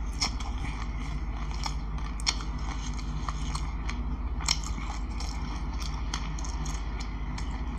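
Close-miked chewing of a mouthful of black sesame seeds: crisp crunching and crackling clicks at irregular intervals, the sharpest about two and four and a half seconds in. A steady low electrical hum runs underneath.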